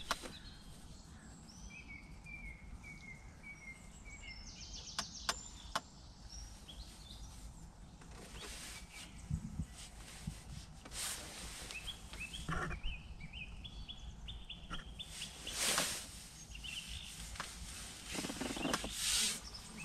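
Wild birds singing in the background, in several short series of quick repeated notes, over a steady low rumble of outdoor noise. There are a few sharp clicks about five seconds in and brief rustles now and then.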